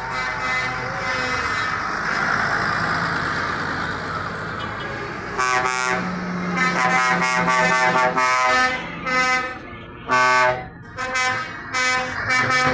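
A steady rushing noise, then from about five seconds in vehicle air horns blasting repeatedly: one long blast followed by several shorter toots.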